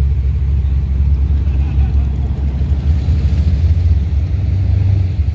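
Deep, steady rumble of a classic car's engine running at low speed, swelling slightly about three and a half seconds in.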